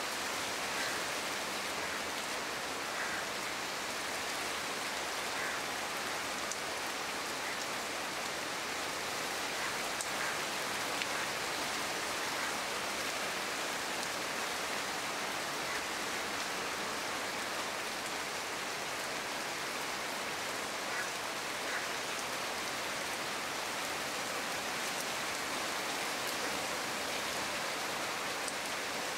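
Steady rain falling on leafy shrubs, an even hiss of drops on leaves with a few separate drop taps now and then.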